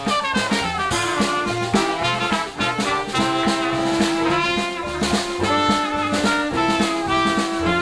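A jazz band playing a swing tune, with brass instruments carrying held notes over a steady drum-kit beat.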